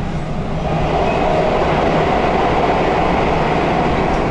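JR West 221 series electric train running at speed, heard from inside the passenger car: a steady rolling rumble that grows louder about a second in.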